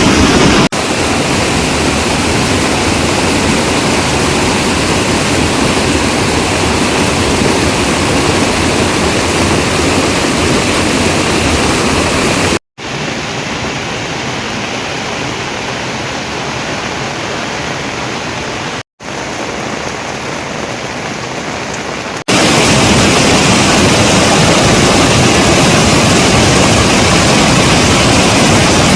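Steady rushing water noise, even and without any rhythm. It goes quieter for several seconds in the middle, with two brief dropouts, where the clip has been cut.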